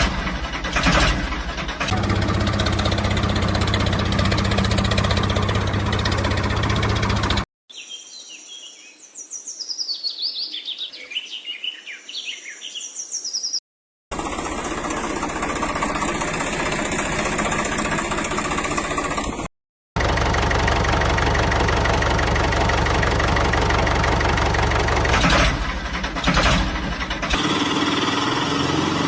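Tractor engine running steadily, in several clips joined by abrupt cuts, with a stretch of birds chirping in the middle in place of the engine.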